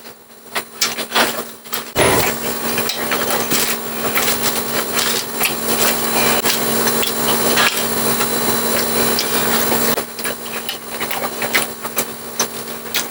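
Close-miked chewing and crunching of crispy fried food in a mukbang, with sharp crackles throughout. A denser, louder stretch of crunching runs from about two to ten seconds in.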